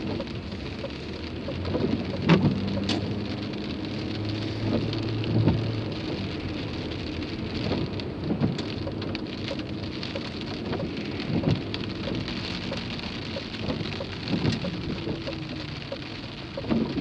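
Rain drumming on a car's roof and windscreen, heard from inside the car, over a steady low hum, with a soft thud about every three seconds; the loudest thud comes about two seconds in.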